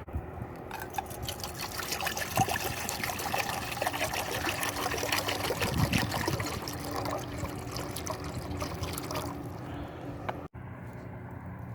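Liquid being poured and trickling, a dense splashy noise with many small clicks, which eases off and then cuts off suddenly near the end.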